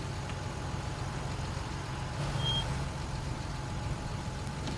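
Steady low rumble of a vehicle driving along, engine and road noise with no sudden events.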